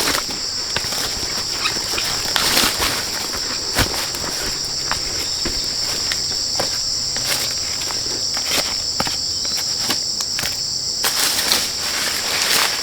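Insects chirring steadily at a high pitch, louder near the end, with scattered light knocks and rustles mixed in.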